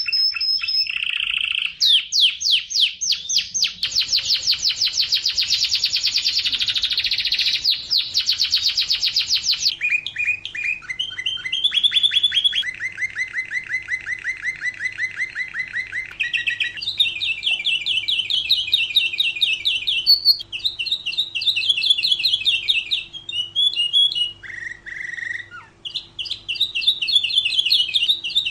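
Domestic canary singing a long unbroken song of rapid trills, each phrase a fast run of repeated notes that switches to a new pitch every few seconds.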